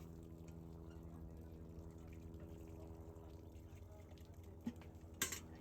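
Wood fire crackling faintly, with a small pop and then a sharper, louder pop about five seconds in, over a steady low hum.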